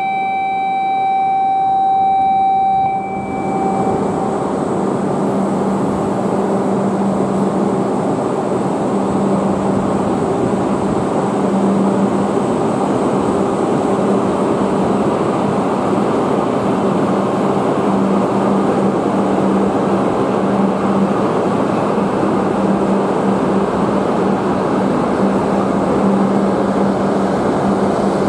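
An E5 series shinkansen pulling out of a station platform and picking up speed, its running noise swelling over a steady low hum. A steady electronic tone sounds for about the first three seconds, then stops.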